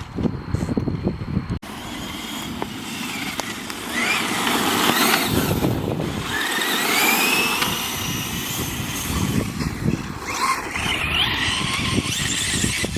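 Radio-controlled car driving hard over rough ground: a high motor whine rising and falling with the throttle over tyre and gravel noise. There is a brief break about one and a half seconds in.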